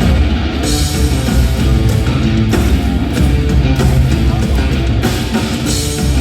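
Heavy rock music with distorted electric guitar and drum kit, an instrumental passage without singing.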